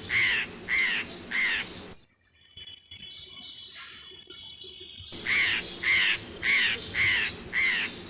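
A bird calling over and over, about two calls a second, in two runs with a quieter stretch of about three seconds between them.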